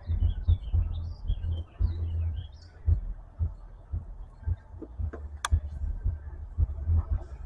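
Irregular low thumps and rumble, with birds chirping in the first couple of seconds and a single sharp click about five and a half seconds in.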